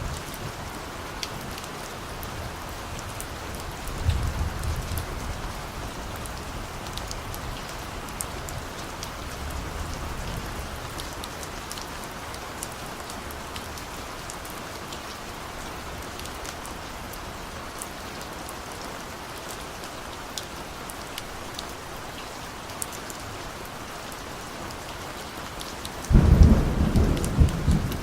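Steady rain with scattered drip ticks and distant thunder. Soft low rumbles come about four seconds in and again around ten seconds, then a louder roll of thunder starts suddenly near the end.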